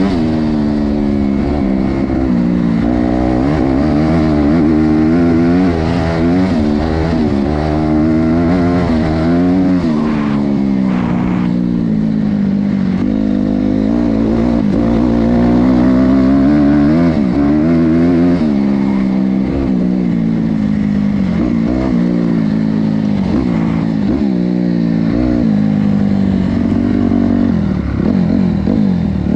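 Honda CRF250R dirt bike's four-stroke single-cylinder engine ridden hard, revving up and dropping back again and again, its pitch rising and falling through the throttle and gears.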